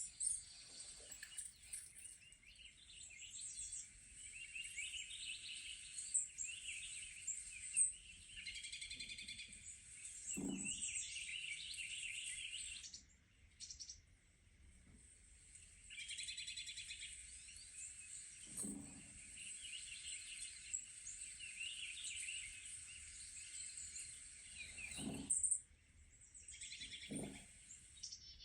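Birds chirping and singing on a nature program's soundtrack, heard through a TV speaker. The chirping is dense and keeps on, with a few short, lower sounds mixed in.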